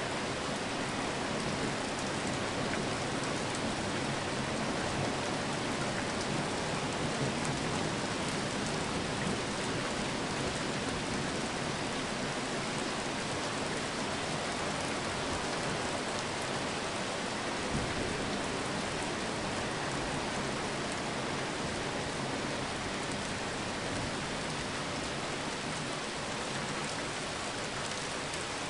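Steady rain falling, an even unbroken hiss. A brief low thump comes about two-thirds of the way through.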